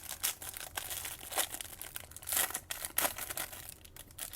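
Trading-card packaging being handled and torn open by hand: plastic wrapper crinkling and tearing in an irregular run of crackles, with several sharper ones through the middle.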